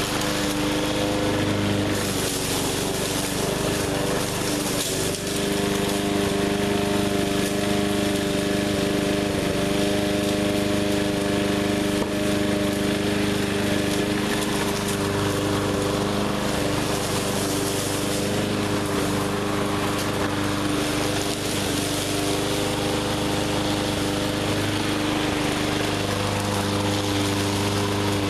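A 20-inch walk-behind push mower's small engine running steadily under load as it cuts through heavy brush, its note shifting slightly a few times.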